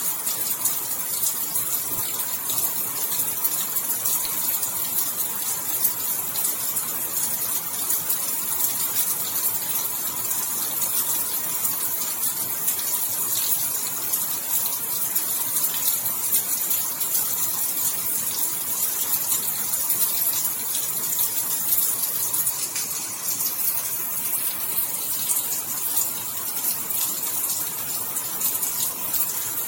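Steady rainfall: a dense, even hiss of many small drops, with no let-up.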